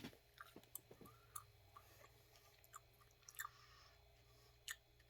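Faint chewing: soft scattered mouth clicks and smacks of someone eating a cold leftover chicken wing, with slightly louder clicks about three and a half seconds in and near the end.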